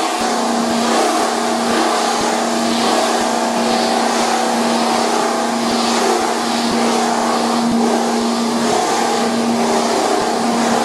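Cable copper-wire recycling machine running steadily: a constant motor hum under an even rushing, grinding noise.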